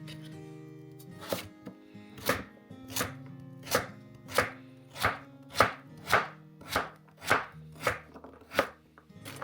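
A knife chopping on a cutting board in slow, even strokes, about a dozen of them at roughly one every 0.6 s, over soft background music.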